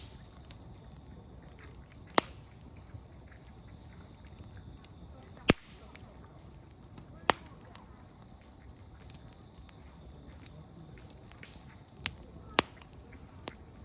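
Wood campfire crackling: firewood popping in sharp, single snaps, about six loud ones at irregular times, the loudest about five and a half seconds in and two close together near the end, with smaller ticks between, over a low steady background.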